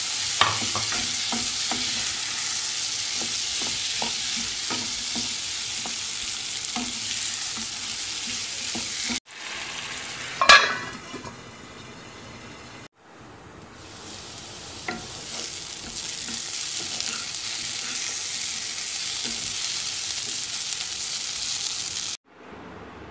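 Baby potatoes frying in hot oil in a pan, a steady sizzle with small clicks of a spatula as they are stirred. The sizzle cuts off suddenly twice, with a brief loud noise about ten seconds in before the frying resumes.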